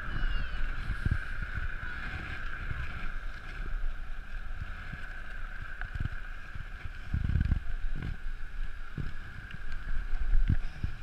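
Wind buffeting the microphone in uneven gusts on a fast downhill bicycle ride, strongest about two thirds of the way through and again near the end, over a steady high-pitched hum.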